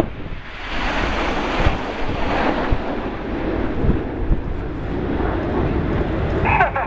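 Jet noise from the Red Arrows' BAe Hawk jets flying past in formation: a steady roar that swells about a second in. Wind buffets the microphone.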